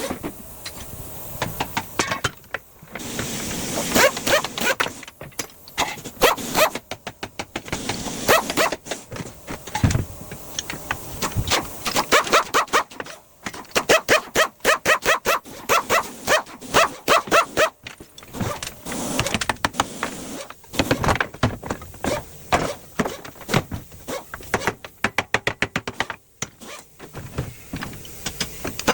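Metal being struck and worked while an old electric motor's casing is broken open and dismantled: a long run of sharp, irregular knocks and clanks in quick clusters, with short pauses and stretches of tool noise.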